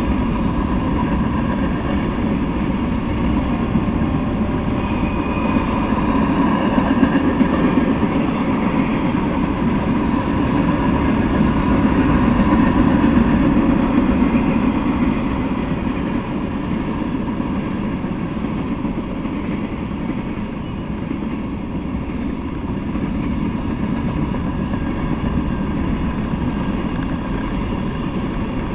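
Freight train of tank cars and covered hopper cars rolling past on the rails: a steady rumble of wheels on track that swells a little and eases off again partway through.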